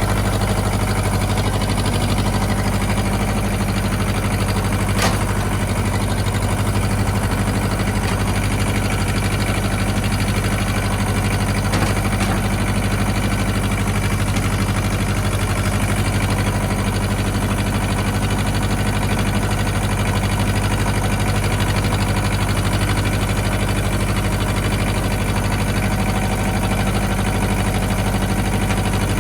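Ford 1700 compact tractor's three-cylinder diesel engine running steadily at constant speed while the tractor pulls a saw log on a chain.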